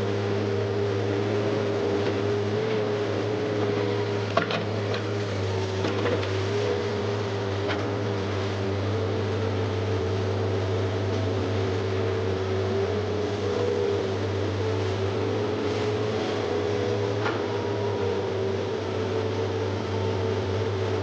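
Komatsu PC130F excavator running steadily, a low engine hum under a wavering hydraulic whine, with a few sharp knocks as it digs.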